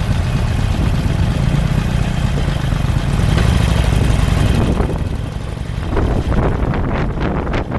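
A vehicle engine running steadily with a low rumble, then from about five seconds in wind buffeting the microphone in uneven gusts as the vehicle gets moving.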